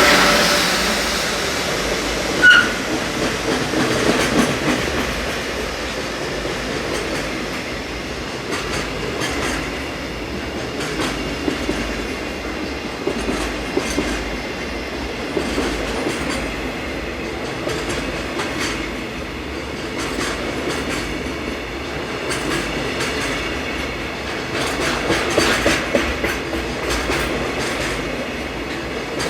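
Freight train wagons rolling steadily past, the wheels clattering over rail joints, with a brief high wheel squeal about two and a half seconds in.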